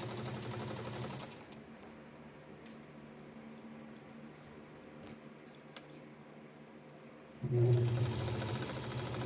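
Vintage early-1950s Atlas Deluxe sewing machine running steadily with a low hum, stopping about a second and a half in. A few light clicks come during a pause of several seconds, then the machine starts again near the end, louder.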